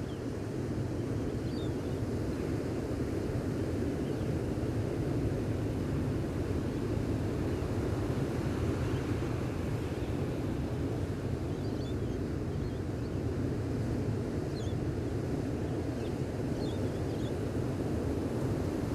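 Gentle ocean surf washing on a beach, a steady low rumble with some wind on the microphone. A few faint high bird chirps come through, mostly in the second half.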